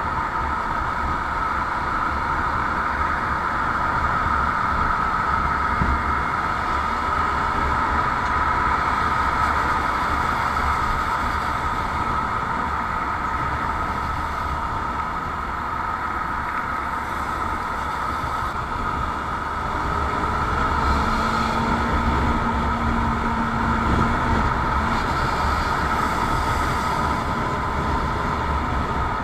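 Motorcycle on the move: steady engine, road and wind noise with no marked change in speed.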